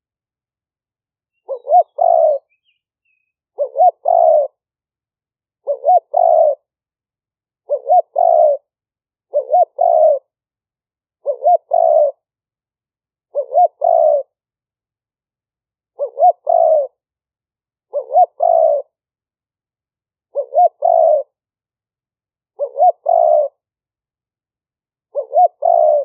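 Spotted dove cooing a repeated two-part phrase, a short note followed by a longer coo, about once every two seconds, twelve times. It is a decoy bird's advertising call, used to draw in wild spotted doves.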